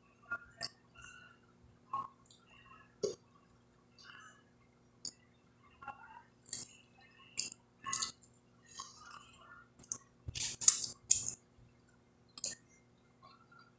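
Chewing of crispy fried fish eaten by hand, close to the microphone: irregular crunches, lip smacks and wet mouth sounds, loudest in a cluster about ten to eleven seconds in.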